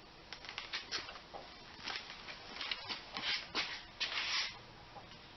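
Irregular scraping, shuffling and light knocks of hands and tools working on the tractor, with a longer scrape about three and a half to four and a half seconds in.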